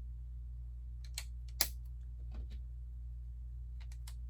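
Small plastic clicks of Lego pieces being handled and pressed together, the sharpest about a second and a half in and a quick cluster near the end, over a steady low hum.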